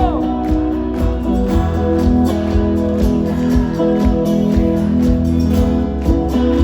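Live band playing an instrumental passage on a concert PA: strummed guitar over a bass line and a steady drum beat.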